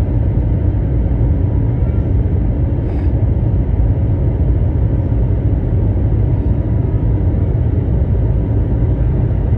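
Steady low rumble of an Airbus A321's jet engines and rushing air, heard from inside the passenger cabin in flight after takeoff.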